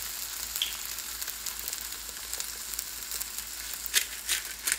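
Fried rice sizzling steadily in a hot cast-iron wok, a continuous high hiss. A few sharp clicks sound about four seconds in and just before the end.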